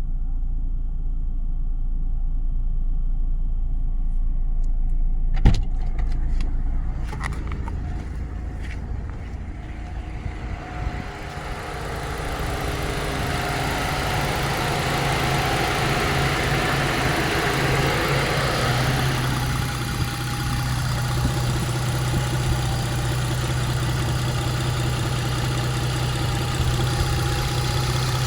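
Mitsubishi Legnum VR4's twin-turbo V6 running at idle on a cold start. There is a sharp knock about five seconds in and a few lighter clicks just after. From about twelve seconds in the running sound grows fuller and hissier.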